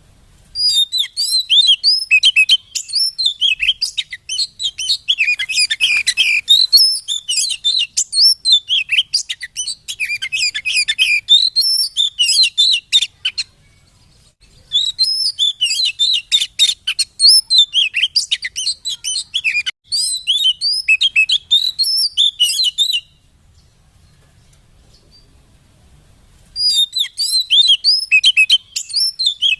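Oriental magpie-robin (kacer) singing a rapid, high-pitched run of varied chirps and whistles in long bouts. It breaks off briefly about 13 seconds in, and again for about three seconds near 23 seconds, before resuming.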